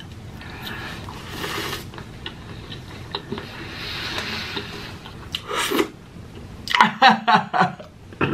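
Close-miked eating sounds: chewing and wet mouth noises with scattered clicks, followed near the end by a few short voice sounds.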